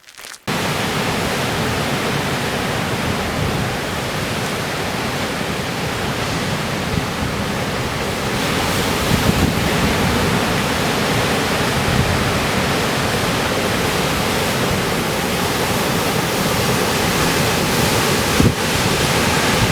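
Steady, loud rushing noise that starts abruptly about half a second in and carries on evenly.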